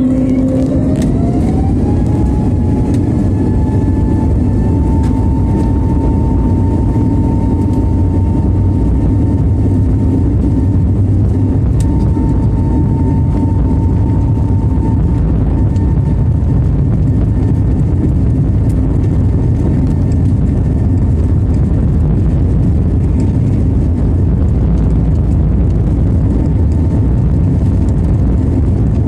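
Jet airliner's engines spooling up to takeoff thrust: a whine that rises over the first couple of seconds, then holds steady over loud, low, steady engine and runway noise. The whine fades about halfway through while the low noise carries on.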